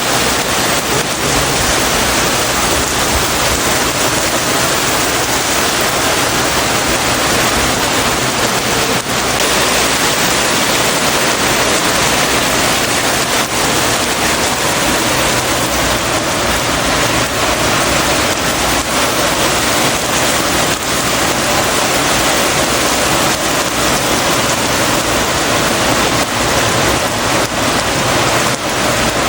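Heavy rain falling steadily, a dense even wash of sound without let-up.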